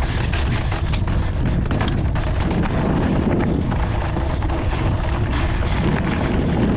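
Wind rumbling over the camera microphone during a mountain bike descent, with the bike clattering over the trail in many quick clicks and rattles.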